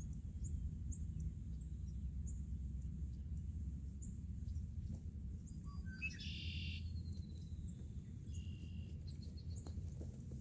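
Small birds chirping every second or so over a steady low rumble, with a louder brief burst of calling about six seconds in.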